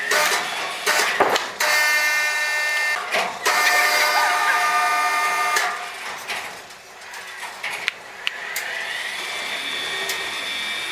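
Sawmill saw cutting timber: a steady whine under load, broken by a few sharp knocks of wood, then near the end a saw's whine rising in pitch and holding steady.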